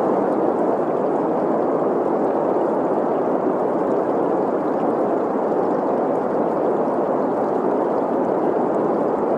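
Green noise, a steady, even rush centred in the middle pitches, blended with the flowing water of a stream.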